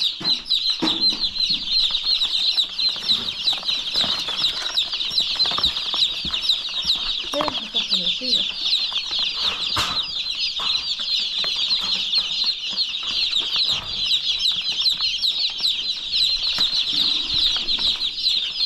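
A large flock of young chicks peeping continuously, many high, overlapping cheeps at once.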